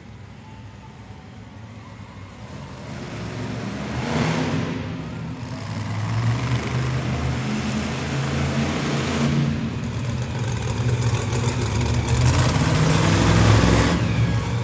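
Monster truck engine revving hard, quieter for the first few seconds and then building, loudest near the end.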